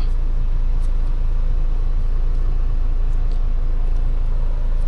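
Steady low rumble of an idling car engine, with a few faint light clicks over it.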